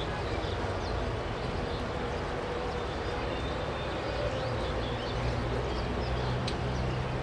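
Steady jet engine noise from an airliner, with a low hum that strengthens over the second half.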